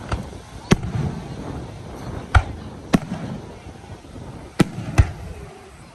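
Fireworks going off: about six sharp bangs at irregular intervals, over a low background rumble.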